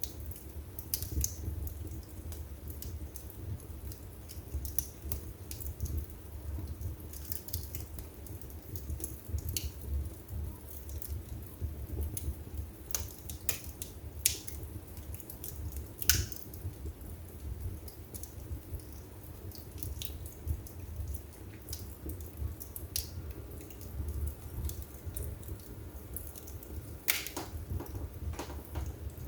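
Wood fire burning in a fireplace: a steady low rumble of flames with irregular sharp crackles and pops from the burning wood. The loudest pops come about 16 seconds in and again near 27 seconds.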